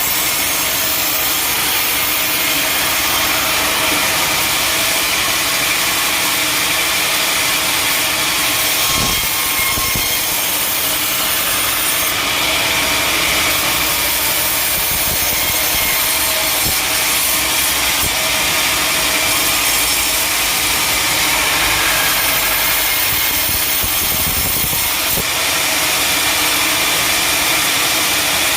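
Sawmill saw cutting steadily through a teak log, a continuous loud grinding hiss of blade through wood.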